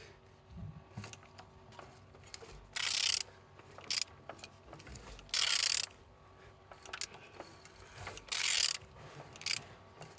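A ratchet wrench turning a Renault M9R diesel engine over by hand. It rasps in about three half-second bursts a few seconds apart, with lighter clicks between, as the crankshaft is rotated to show the engine turns freely.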